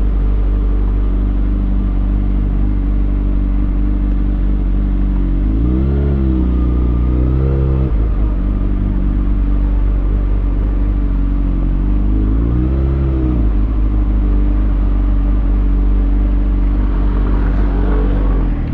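2020 Kawasaki Ninja ZX6R's inline-four engine through a Lextek SP7C carbon exhaust with decat headers, running steadily with three quick throttle blips, the pitch rising and dropping back each time: two close together about a third of the way in and one more past two-thirds.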